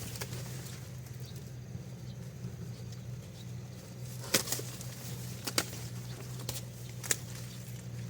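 A few short, sharp knocks or snaps, four in the second half, over a steady low hum.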